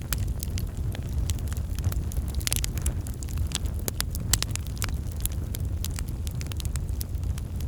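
Wood fire burning, with a steady low rumble and frequent irregular crackles and pops.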